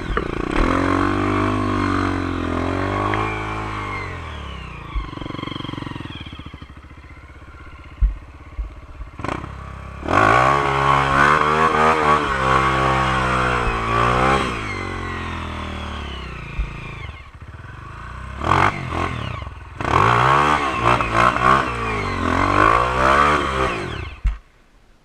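Honda CRF230 trail bike's single-cylinder four-stroke engine revving up and down under throttle, with loud bursts of revs around ten and twenty seconds in and a few sharp knocks between. The sound stops abruptly near the end.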